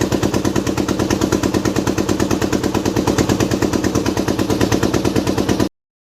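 Motorcycle engine running close to the microphone, a rapid, even train of firing pulses at about a dozen a second. It cuts off abruptly near the end.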